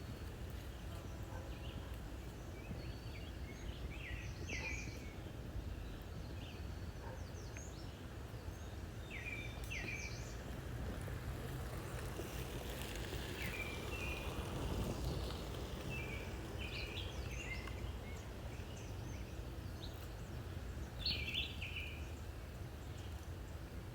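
Songbirds giving short, scattered chirps over a steady low rumble, with a louder burst of chirps near the end. The rumble swells briefly about halfway through.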